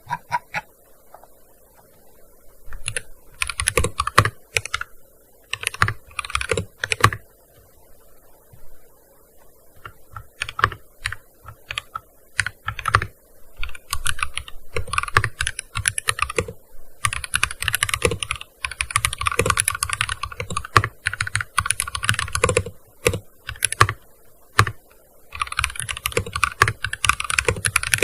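Typing on a gaming keyboard: bursts of rapid keystrokes separated by short pauses, starting after a few quiet seconds.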